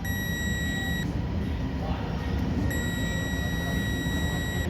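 Battery charger's electronic buzzer sounding a steady, high-pitched tone in long beeps: on for about a second, off for a little under two seconds, then on again for about two seconds. It keeps buzzing while the red light shows, before the charger's light turns green.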